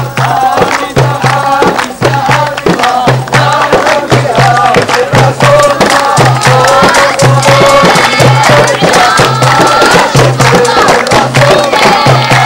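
Voices singing a traditional folk song over a steady percussive beat of drum strokes and sharp claps.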